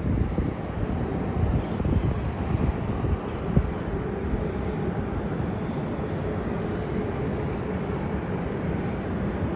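Distant jet airliner engines running, a steady rumble with a faint steady whine that comes in about four seconds in.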